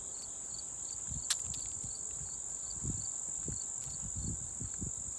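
Crickets trilling in one steady high buzz, with a fainter chirp repeating about three times a second. Soft footsteps on the trail come in from about a second in, and there is one sharp click just after that.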